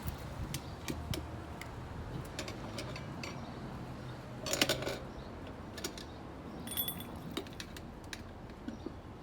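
Metal tools clicking, clinking and tapping while being handled during motorcycle tire and tube work: irregular sharp clicks, a brief rattling cluster about halfway through, and a short ringing clink a little later.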